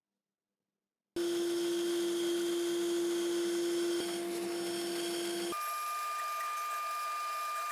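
Electric power tool motor running at a steady pitch, starting abruptly about a second in. A little past halfway it switches abruptly to a different, higher-pitched steady whine.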